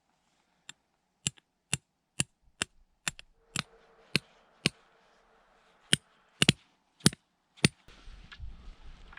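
A dozen or so sharp, evenly spaced blows, about two a second, each cutting off quickly: repeated strikes of a hand tool such as in chopping or pounding.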